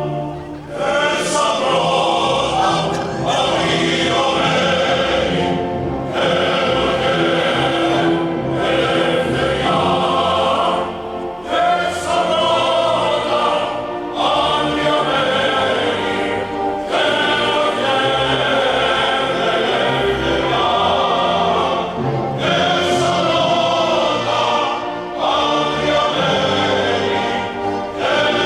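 A choir singing a national anthem with musical accompaniment, in long held phrases with brief breaths between them.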